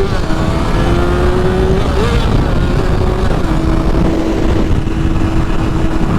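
Honda CBR sport bike's engine pulling up through the gears, dropping in pitch at a quick upshift just after the start and again about two seconds in, then holding a steady pitch while cruising. Wind noise rushes over the microphone throughout.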